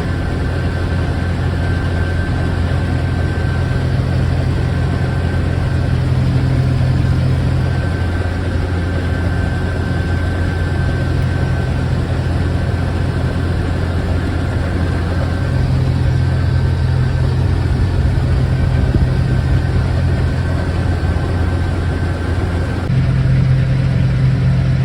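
Combine harvester running steadily while harvesting wheat: a constant low engine drone with a faint steady whine above it.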